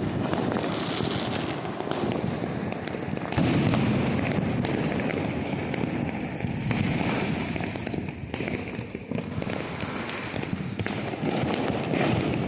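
A dense, continuous barrage of Diwali fireworks and firecrackers going off, many overlapping pops and bangs with no break between them. It gets louder about three and a half seconds in.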